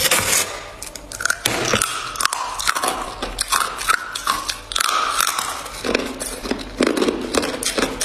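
Ice being bitten and chewed close to the microphone: a rapid, irregular run of sharp crunches and cracks.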